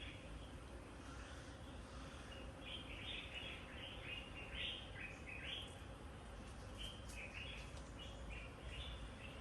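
Birds chirping in quick clusters of short calls, busiest a few seconds in and again near the end, over a steady low background rumble.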